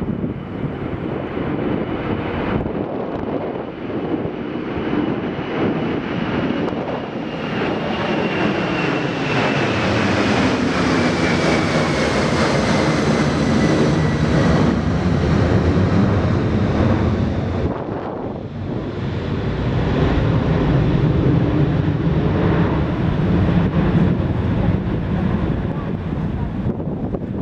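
Jet airliner engines passing close: a loud rushing roar that builds to a peak, with a thin turbine whine gliding down in pitch through the middle. The sound dips briefly about two-thirds of the way through, then comes back as a loud low rumble, with wind on the microphone.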